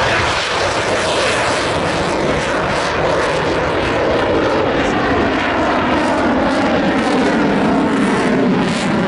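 Eurofighter Typhoon's twin EJ200 turbofan engines, a loud, steady jet noise from a fighter in flight, its tone dropping lower near the end.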